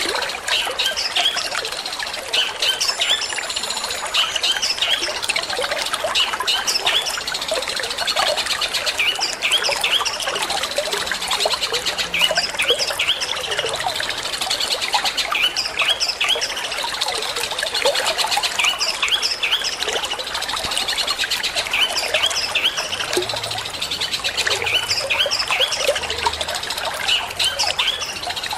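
Long-tailed shrike (cendet) singing a fast, unbroken string of short chirps over a steady trickle of running water.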